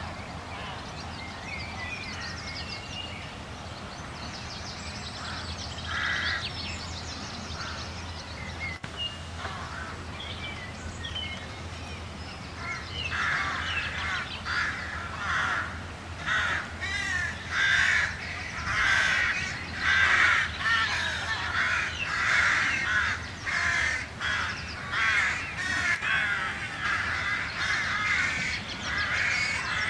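Birds calling again and again, sparsely at first, then in quick succession from about halfway in. A steady low hum runs underneath.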